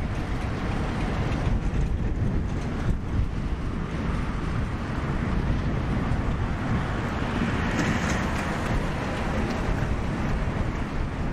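Diesel-hauled freight train running on the rails: a steady low rumble with wind buffeting the microphone, and a short rise in rail noise with a few clicks about eight seconds in.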